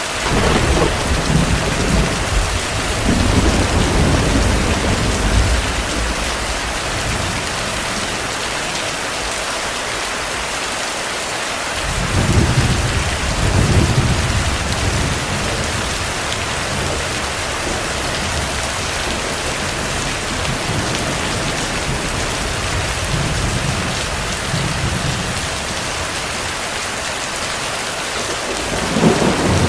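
Steady heavy rain with thunder rolling in low rumbles: a long roll over the first six seconds, another about twelve to fifteen seconds in, a faint one later, and a short swell near the end.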